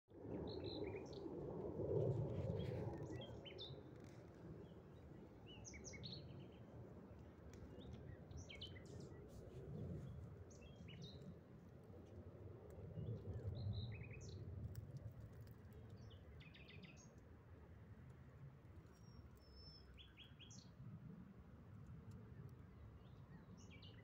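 Small birds chirping, with short, high calls scattered throughout, over a low rumble that swells near the start and again about halfway.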